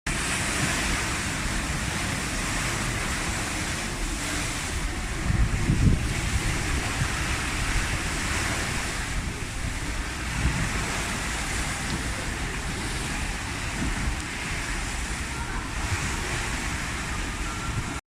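Strong storm wind buffeting the microphone over the steady rush of big waves breaking, with a heavy gust about five seconds in.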